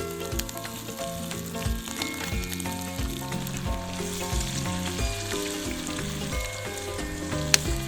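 Food sizzling as it fries in a pan, a steady hiss under background music with a steady beat. A single sharp click sounds near the end.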